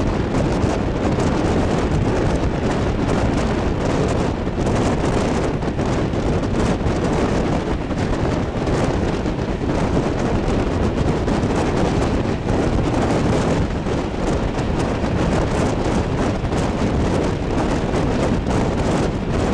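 Steady rumble of a moving train with heavy wind buffeting the microphone.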